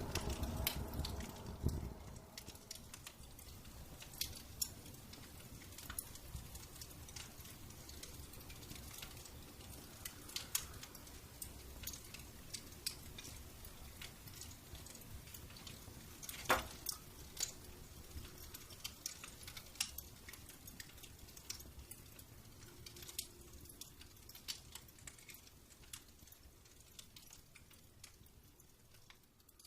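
Wood fire crackling in a fireplace: scattered small pops and snaps over a low steady rumble, with one sharper pop about halfway through.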